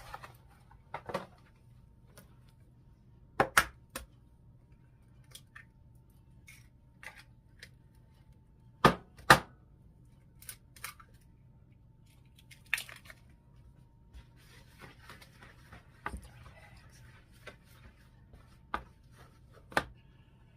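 Kitchen preparation sounds: scattered sharp clicks and knocks of utensils and containers being handled, with two pairs of louder knocks among them and a stretch of soft rustling about three quarters of the way through.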